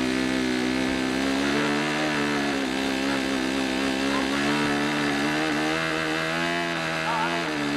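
Small model-airplane engine running steadily on its propeller, its pitch wavering slightly and dipping briefly near the end.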